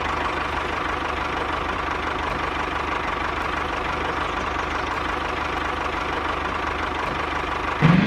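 Small motor running steadily at constant speed, with a faint steady whine through it.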